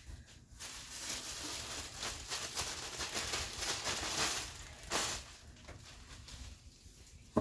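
Rustling and crinkling of clothing packaging (plastic bags and paper) being handled, busiest in the first five seconds with a sharp crackle near the five-second mark, then quieter.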